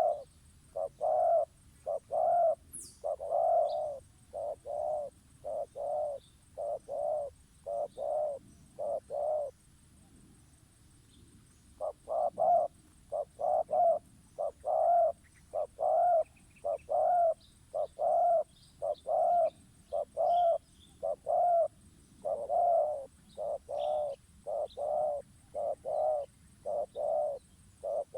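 A dove-type bird call used as a bird-lure call: short low coos repeated evenly, about two a second, breaking off for a couple of seconds about ten seconds in, then resuming. Faint higher chirps and one brief high falling whistle sound behind it.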